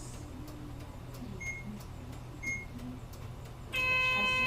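Inside a stopped bus: the engine idles with a steady low hum, and two short high beeps sound about a second apart. Near the end a much louder buzzing tone starts, typical of the bus's door-closing warning buzzer before it pulls away from the stop.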